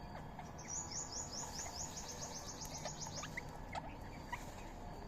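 Bird calls: a rapid high trill of about twenty short notes, roughly eight a second, lasting about two and a half seconds, with scattered short chirps around it.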